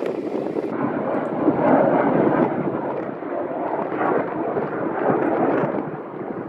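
Loud, rough roar of a military jet passing overhead, swelling and easing off again without a clear pitch.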